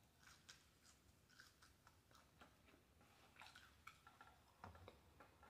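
Faint chewing of a french fry: soft, scattered mouth clicks and smacks.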